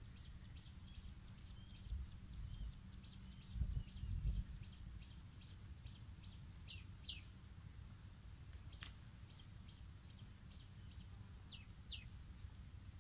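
A bird chirping in a fast, regular series of short high chirps, about three a second, with a few lower falling calls. There is low rumble throughout and a few dull thumps a few seconds in.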